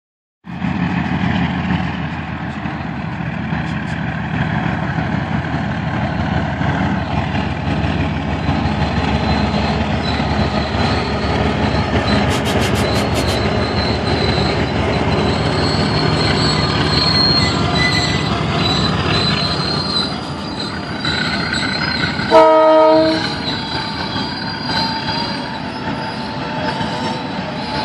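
Diesel locomotive hauling a passenger train past at close range: the engine runs and the wheels roll on the rails, with a thin high wheel squeal from about halfway through. Near the end comes one short blast of the locomotive horn, the loudest sound, and then the coaches keep rolling by.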